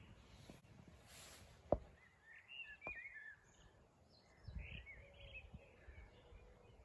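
Faint outdoor ambience with small birds chirping in short bursts a couple of times. A single sharp click about two seconds in is the loudest sound, and a few low thumps follow midway.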